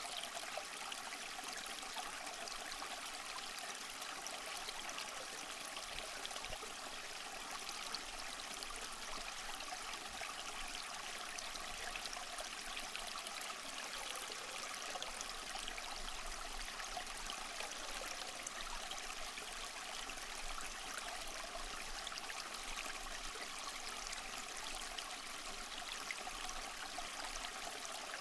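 Small waterfall splashing and trickling steadily over mossy rocks, with fine droplet splashes through the rush of water.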